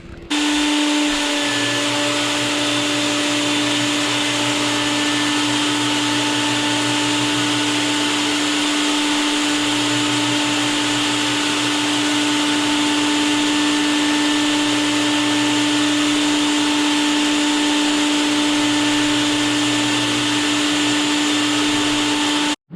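Floor buffer with a multi-head sanding attachment running 120-grit paper over a hardwood floor, with its dust vacuum running alongside: a steady motor noise with one constant tone, cutting off suddenly near the end.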